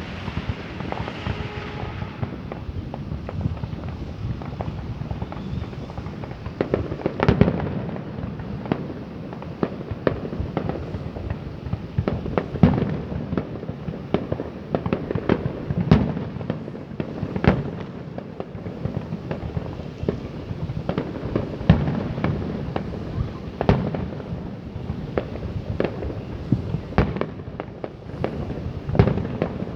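Fireworks going off: a dense, unbroken run of pops and bangs in quick succession, with a few louder bangs standing out now and then.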